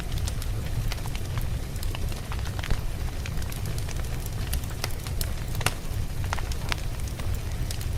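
Campfire burning, with a steady low rumble of flames and frequent sharp, irregular crackles and pops from the burning wood.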